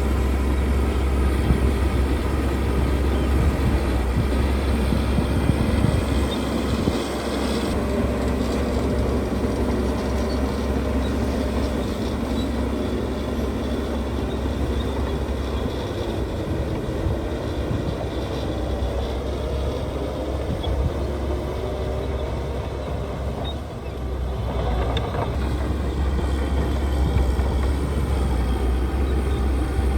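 Diesel engine of heavy earthmoving machinery running steadily under work, a deep continuous rumble that eases briefly about two-thirds of the way through.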